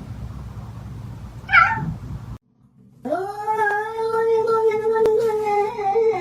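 A cat meows once briefly over background noise, then after a short break lets out a long, drawn-out yowl held at a steady pitch for about three seconds.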